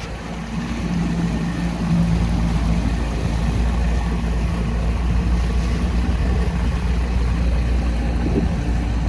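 A boat's engine running at a steady drone under way, with wind on the microphone and rushing water.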